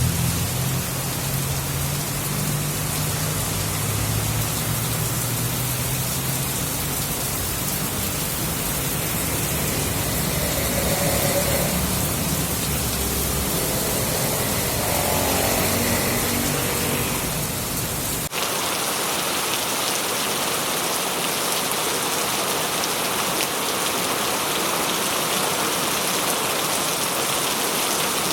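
Steady rain falling, an even hiss of drops. For roughly the first two-thirds, a low rumble with some pitched tones sits under the rain and stops at a sudden cut, leaving the rain alone.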